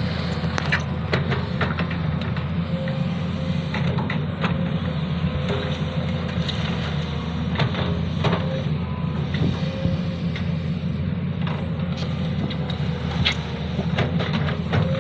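Sany SY215C hydraulic excavator's diesel engine running steadily under work, with frequent short clanks and knocks from the machine as it digs and shapes the ground.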